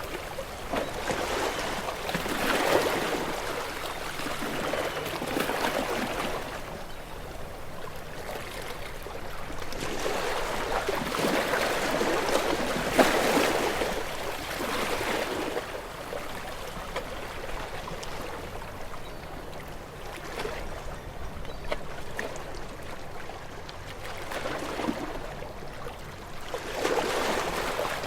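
Ocean waves washing in, each surge of surf swelling and then falling away. A bigger wave breaks about halfway through, a calmer stretch follows, and another wave comes in near the end.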